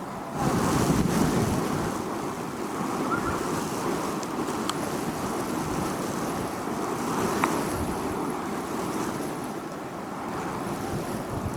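Wind blowing on a beach, buffeting the microphone. It steps up in a stronger gust about half a second in, then goes on as a steady rushing noise.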